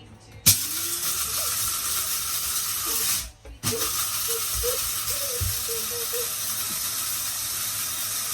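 Mr. Coffee electric blade coffee grinder grinding whole beans, with a steady whir and rattle. It starts sharply about half a second in, stops for a moment around three seconds in, then runs on.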